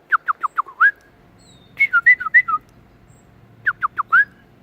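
A person and a pet bird trade whistled phrases. One phrase is a quick run of about five falling whistles that ends on a rising one. It is answered by a short warbling phrase, and then the falling run comes again.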